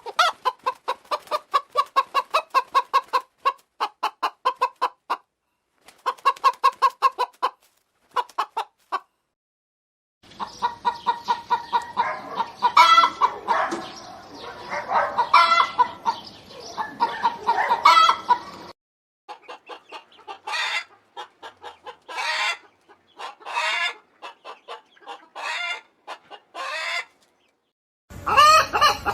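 Hens clucking in a series of separate recordings split by short silent gaps: quick runs of clucks, then a stretch over background noise with louder, drawn-out calls, then spaced bursts of clucking.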